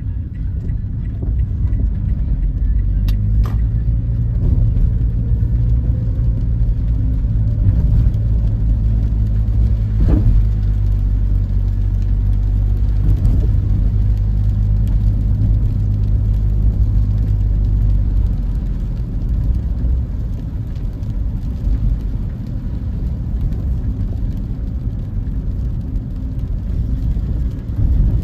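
Steady low rumble of a car driving, mostly road and tyre noise with the engine, heard from inside the cabin. It eases off a little about two-thirds of the way through.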